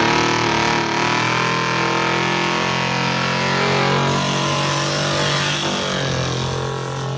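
A car engine that has just revved up runs at a steady, fairly high pitch, then eases off a little near the end.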